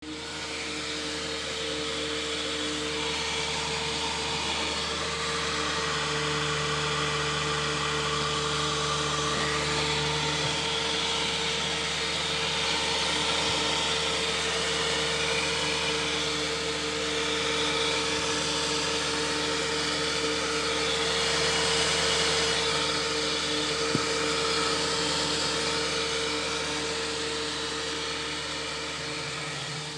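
A small electric motor running steadily with a whirring hum, with one sharp click late on.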